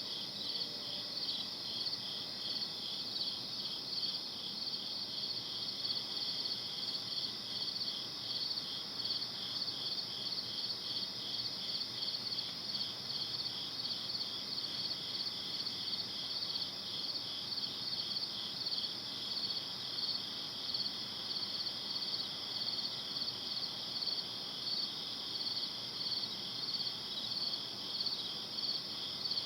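Night chorus of crickets chirping steadily in rapid, evenly spaced pulses, over a faint even hiss.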